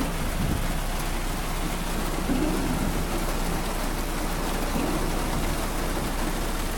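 Heavy rain pounding on a car's roof and windows, heard from inside the car as a steady, dense hiss.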